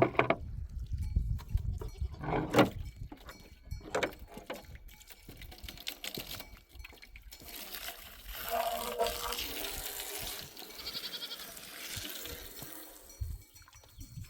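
Sheep or goats bleating, several separate calls a few seconds apart.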